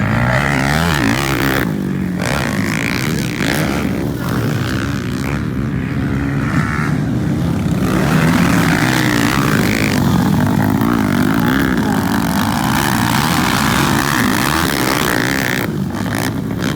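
Motocross bike engines running hard, their pitch rising and falling continuously as the riders rev and shift.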